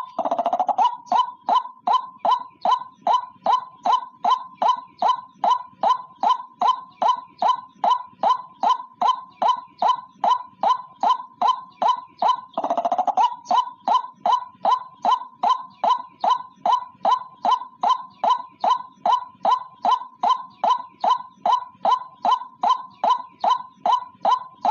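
White-breasted waterhen (ruak-ruak) giving its monotonous single-note call over and over, about two to three loud notes a second in an even rhythm. About halfway through, one longer, rougher call breaks the run before the steady repetition resumes.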